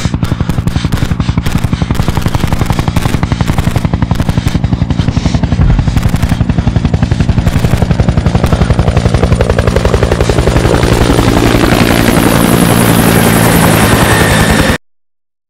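Helicopter running close by, its rotor beating in a fast, even pulse over a steady engine drone. The sound cuts off suddenly near the end.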